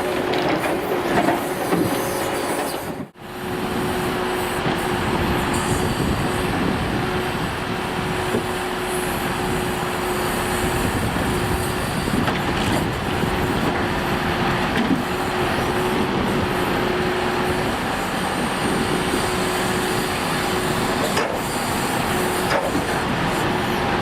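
Scania G490 timber truck's 13-litre straight-six diesel running steadily, driving the crane's hydraulics during log loading, with a steady whine over it and a few faint knocks. The sound drops out briefly about three seconds in.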